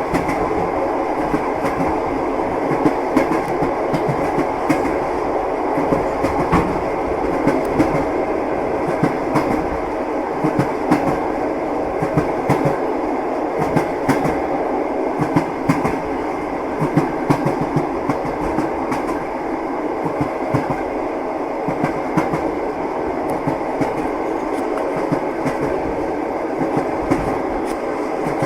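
Passenger train running over the rails, with a steady rumble and the irregular clatter and knock of the wheels on the rail joints.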